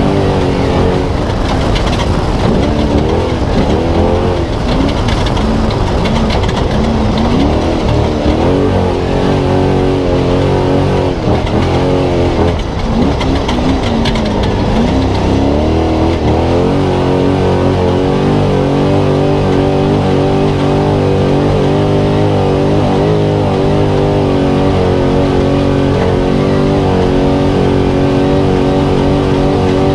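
Spec Trophy Truck's engine at race pace, heard from onboard. For about the first half the revs rise and fall repeatedly with throttle and gear changes, with a brief dip about twelve seconds in. After that it holds steady revs.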